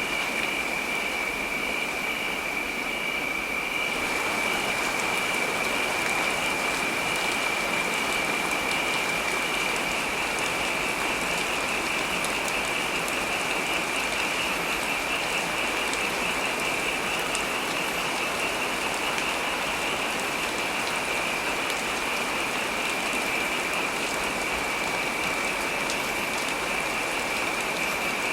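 Steady heavy rain, an even wash of hiss that grows brighter about four seconds in. A steady, faintly pulsing high tone runs underneath it.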